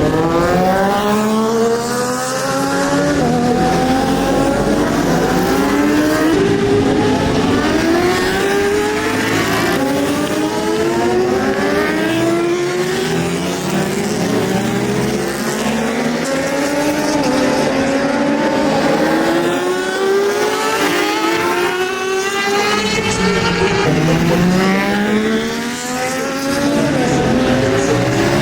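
Several superbike engines at racing speed on track, pitch climbing through each gear and dropping back at every shift, over and over, with more than one bike heard at a time.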